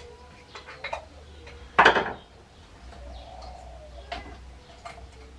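Hard objects knocked and clinked together while being handled, a few light knocks and one louder clatter about two seconds in.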